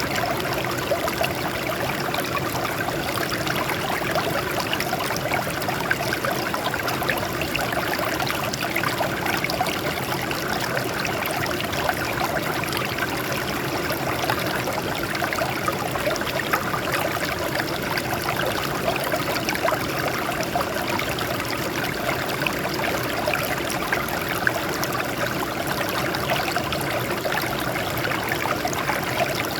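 Water flowing and splashing over rocks: a steady, even babble of a small stream or cascade, with small splashes flickering through it.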